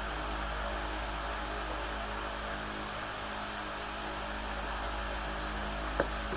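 Steady low hum and hiss of background noise, with one sharp click near the end.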